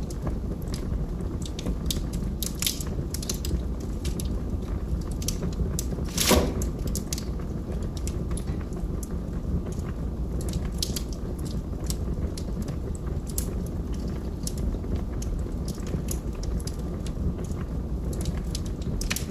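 Wood fire burning in a fireplace: a steady low rumble of the flames with scattered sharp crackles from the logs, and one louder pop about six seconds in.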